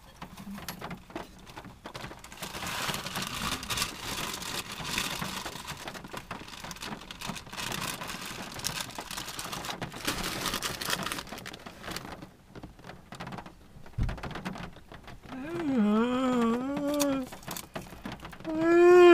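Rain pattering steadily on a car's roof, heard from inside the cabin. A single dull knock about 14 seconds in, and near the end a person's voice makes wordless wavering sounds that swell into a loud, drawn-out wail.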